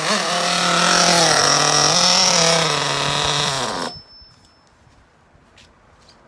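O.S. Max .30 VG nitro engine running through its break-in, its pitch wavering, then dropping away and cutting out a little under four seconds in as the first tank of fuel runs out.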